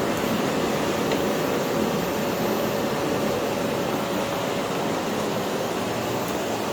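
Philips PowerPro FC9331/09 bagless vacuum cleaner running steadily: a constant rush of air with a steady motor whine.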